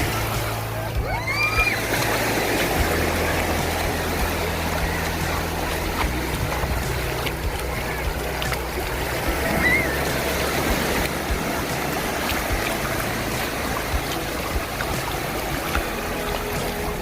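Surf washing onto a sandy beach, a steady rushing of waves, under background music with sustained low notes. Two brief high rising calls come through, about a second in and again near ten seconds.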